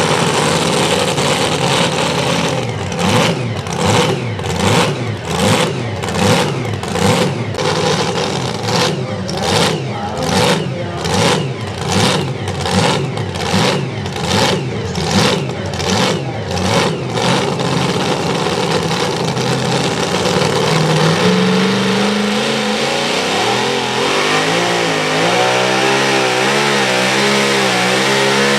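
Super modified two-wheel-drive pulling truck's engine running hard, its sound pulsing in a steady rhythm a little under twice a second for about fifteen seconds. From about twenty seconds in, the pulsing stops and the engine note rises and wavers in pitch.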